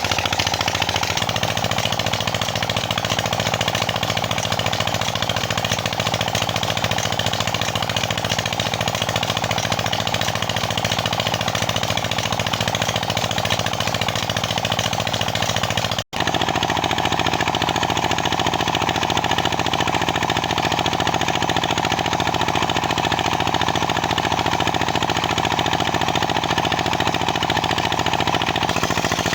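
Petter diesel engine running a tubewell pump: a steady, fast, even chugging with a knocking beat, broken by a brief dropout about sixteen seconds in.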